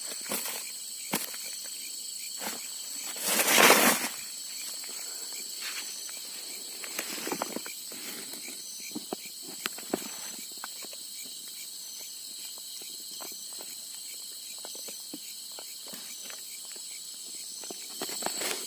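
Night insects, crickets among them, trilling steadily at a high pitch, with scattered clicks and footsteps. A louder rush of noise comes about three and a half seconds in.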